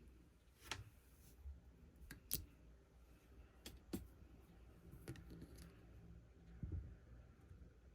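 Clear slime with mixed-in parts being handled, giving scattered faint clicks and pops, about eight in all, irregularly spaced over a quiet background.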